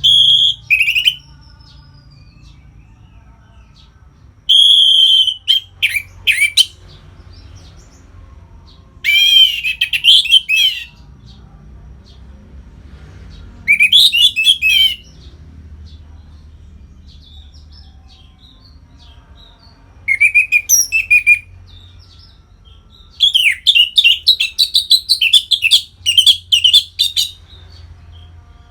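Orange-headed thrush singing loud, separate phrases of rapid warbling notes, with pauses of a few seconds between phrases; the last phrase near the end is the longest.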